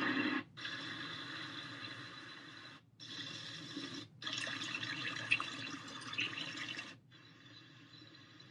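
GDBow sound machine playing its built-in white noise and water sounds through its small speaker, switched from one track to the next several times. Each sound cuts off abruptly before the next starts, and the output drops to a faint level about 7 seconds in.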